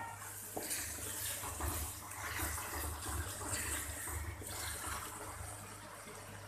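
Wet onion-tomato masala with a little water sizzling in a steel kadai over a gas flame, as a steady hiss, while it is stirred with a wooden spatula. It is being fried (bhuna) with the spices so they cook in.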